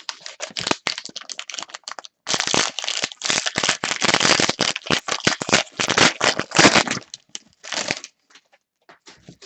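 Crinkling foil wrapper of a trading-card pack being handled and opened, in dense crackly bursts with a short break about two seconds in, thinning out near the end.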